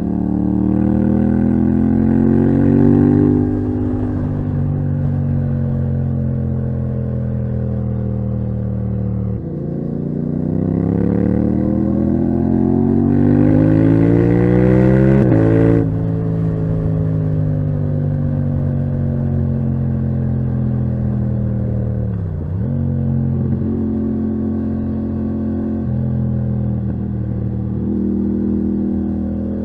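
Yamaha MT-07's parallel-twin engine through a titanium Akrapovic exhaust, ridden under load. The revs climb at the start, then again at length from about ten seconds in, before the throttle closes sharply around sixteen seconds; the rest is steady cruising with a brief dip in revs a few seconds later.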